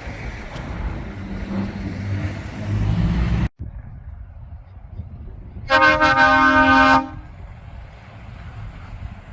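A heavy truck's engine runs with a low rumble that cuts off suddenly after about three and a half seconds. Then a truck air horn sounds once, a steady blast of just over a second, and quieter traffic noise follows.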